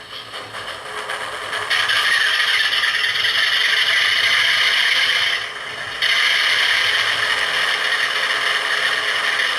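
Hornby TTS sound decoder in a model Class 47 diesel locomotive, playing its recorded diesel engine sound through the loco's small speaker after being switched on. The sound builds, jumps louder about two seconds in, drops briefly a little past halfway, then runs steadily.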